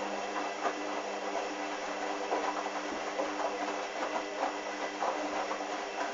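Hoover washing machine tumbling a load of towels in the wash: a steady motor hum with irregular splashing and sloshing of water and suds in the turning drum.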